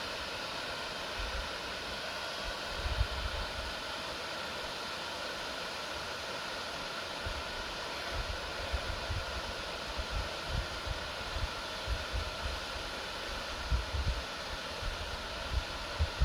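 Steady rushing outdoor background noise in a forest, with irregular low thumps and bumps that come more often in the second half, from wind buffeting or handling of the microphone while walking.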